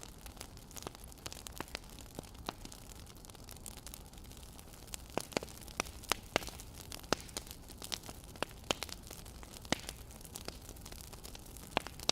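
Wood fire crackling: irregular sharp pops and snaps over a steady low hiss, growing busier about halfway through.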